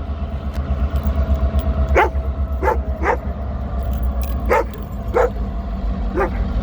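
A dog barking excitedly, about six short barks in uneven groups from about two seconds in, over a steady low engine rumble.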